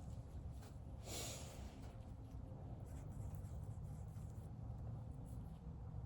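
Quiet paintbrush strokes on a painting surface over a low steady hum, with one short breathy rush of noise about a second in.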